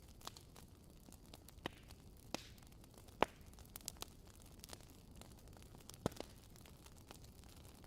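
Wood fire crackling: irregular sharp pops and snaps over a soft low hiss, the loudest about three seconds in and again about six seconds in.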